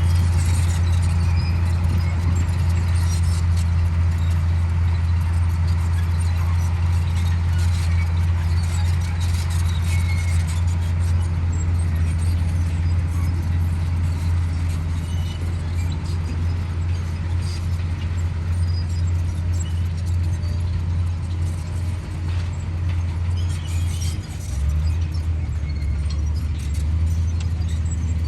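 Komatsu D58E bulldozer's diesel engine running steadily under load while cutting soil, with scattered short high clicks over it. The engine note drops a little near the end.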